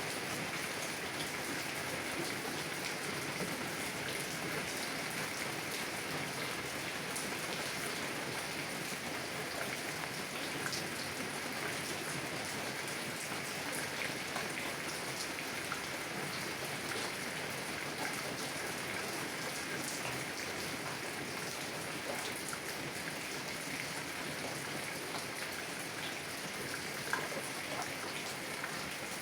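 Heavy rain on a car window, heard from inside the car: a steady hiss of rain with scattered sharper drop ticks.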